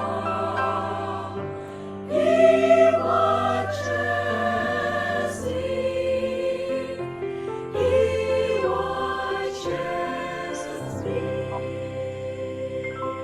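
Choir singing a slow gospel hymn, the voices holding long notes, with louder swells about two seconds in and again near the middle.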